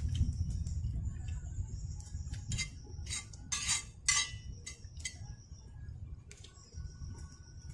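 Metal utensils clinking against cookware, a handful of sharp knocks about halfway through, over a steady low rumble. A thin high steady note comes and goes.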